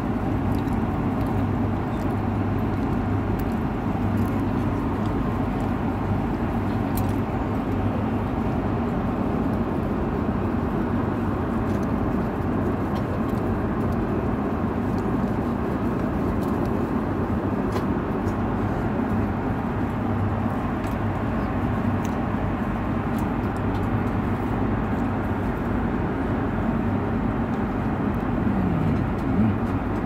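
Steady drone of an airliner cabin in flight: jet engine and airflow noise with a low, even hum.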